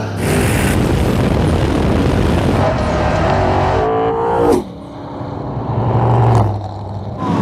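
Street-race cars running flat out down the road, engines loud, cut across several abrupt edits. Around the middle one engine note falls in pitch, then drops away.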